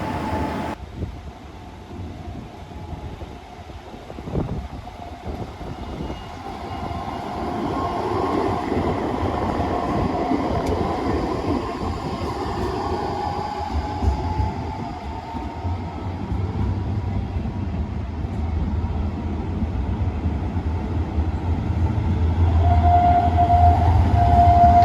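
Bombardier NGT6DE low-floor tram moving on its rails: its electric drive whines in gliding pitches while a low wheel rumble grows louder. Near the end a steady warning tone starts, broken into short pulses.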